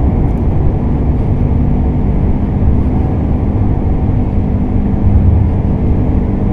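Steady low rumble inside a 1997 Toyota Camry's cabin at highway speed: tyre and road noise mixed with the growl of a worn right rear wheel bearing.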